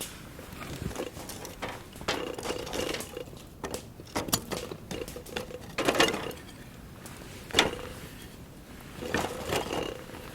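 Scattered clicks, knocks and rustling of things being handled, with two sharper knocks about six and seven and a half seconds in.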